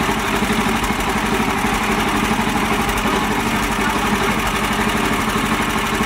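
Kubota mini tractor's engine running steadily with an even, unchanging beat.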